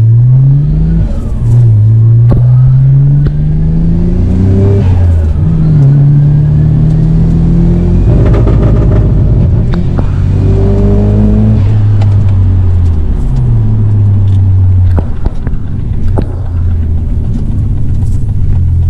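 Nissan Skyline GT-R R32's twin-turbo RB26DETT straight-six heard from inside the cabin, accelerating through the gears: the revs climb and drop back at each gear change several times, then fall away in the second half. A faint whistle rises along with the early pulls.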